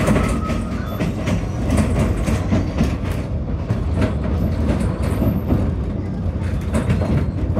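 Narrow-gauge railway carriage running along the track, heard from inside: a steady low rumble of the wheels with irregular clicks and knocks from the rails and joints.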